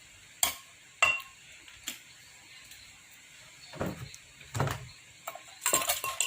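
Pestle and spoon knocking in a som tam mortar as the salad is pounded and mixed: a few sharp separate knocks, two duller thuds, then quick clattering near the end.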